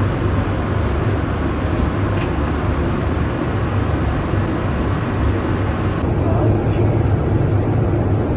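Steady cabin noise inside a Boeing 787-8 airliner: a continuous low rumble with an even airflow hiss. The upper part of the hiss shifts slightly about six seconds in.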